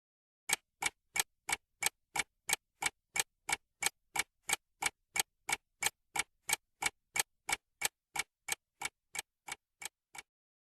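Clock-ticking sound effect, an even run of sharp ticks about three a second, growing slightly quieter toward the end before stopping.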